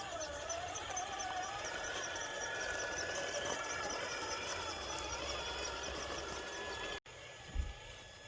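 Radio-controlled tow truck's motor and gear train whining in low gear as it pulls a load, the pitch wandering up and down with speed over a steady higher tone. The sound cuts off suddenly about seven seconds in, and a single low thump follows.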